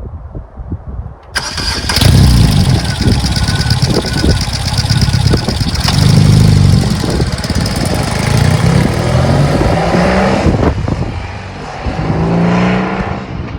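BMW R18's big air- and oil-cooled boxer twin running loud through an aftermarket Walzwerk exhaust. It comes in suddenly about a second and a half in and is revved up and down in blips. Near the end the revs climb and fall once more.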